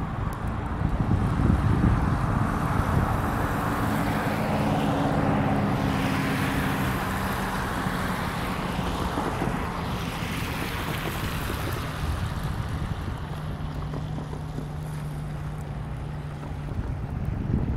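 EMD F40FH diesel-electric locomotive running, a steady low engine drone with several pitches, under a rushing noise that swells through the first half and then eases.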